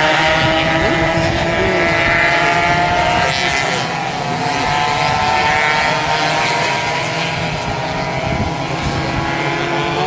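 Several 120cc two-stroke racing motorcycles running at high revs together, their engine notes overlapping and slowly rising and falling in pitch as they pass around the track.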